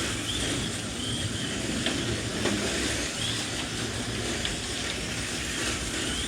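Electric motors of 1/32 scale slot.it Group C slot cars whining as they race around the track, with short whines coming and going as cars pass, over a steady rumble of the cars running on the track.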